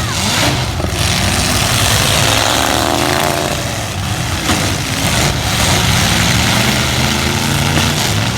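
Engines of several light trucks in a demolition derby revving and running hard, their pitches rising and falling over one another, with a few brief knocks.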